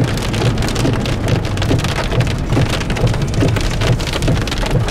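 Heavy rain pattering on a moving vehicle's windshield and roof, heard from inside the cabin, with a steady low road rumble underneath.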